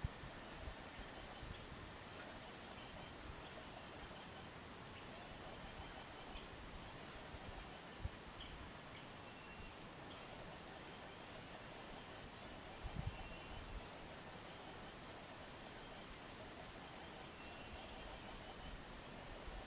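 Prenjak (prinia) song played from an MP3 bird-trapping lure: a high, fast trill in phrases about a second long, repeated over and over with short gaps and a pause of about two seconds near the middle.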